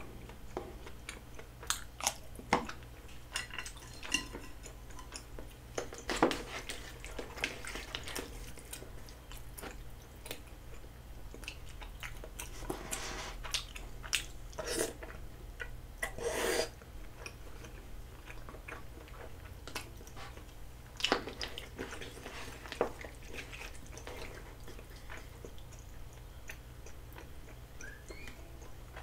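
Close-miked chewing of soft, chewy rice cakes, with wet mouth sounds and scattered short clicks. A few longer, louder bites come in the middle as rice cakes are taken off the chopsticks.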